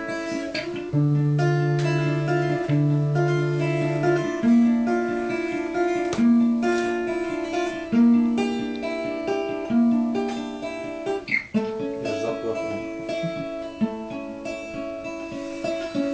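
Acoustic guitar played alone, picked and strummed chords in a slow melancholy song accompaniment, with no singing, gradually getting quieter toward the end.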